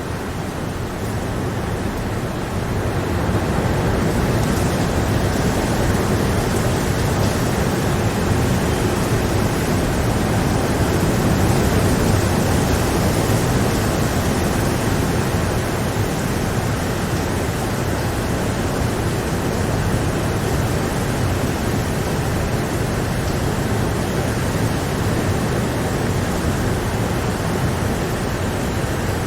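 Steady rain, an even hiss with no separate drops standing out, growing a little louder about three seconds in.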